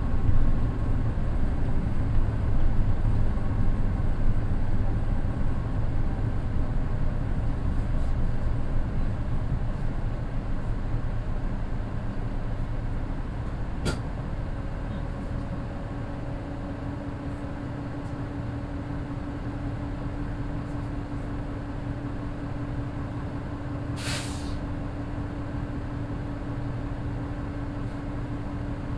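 Inside a Mitsubishi Fuso Aero Midi KK-MJ27HL bus with its naturally aspirated 6M61 diesel: the running noise dies down over the first half, as when the bus slows to a standstill, then settles to a steady idle with a low hum. A sharp click comes about halfway through, and a short hiss of air from the air brakes comes a little later.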